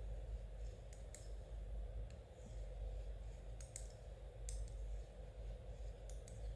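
Knitting needles clicking together as stitches are worked: a few sharp clicks, mostly in close pairs, over a steady low hum.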